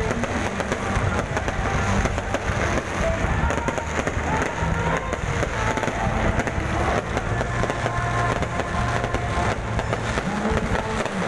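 Aerial fireworks display: a rapid, continuous run of shell bursts and crackling, over loud background music.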